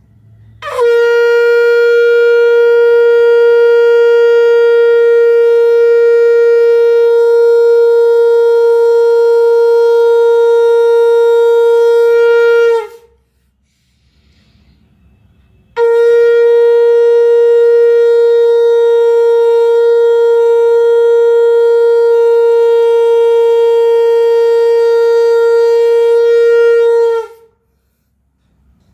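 Conch shell (shankh) blown in two long, steady blasts of about twelve seconds each, with a pause of about three seconds between them. Each note scoops up into pitch at the start and sags slightly as it ends.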